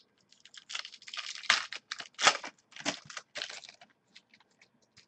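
Trading cards and their packaging being handled: a run of rustling and crisp clicks, busiest and loudest in the middle of the stretch, then thinning to a few light clicks.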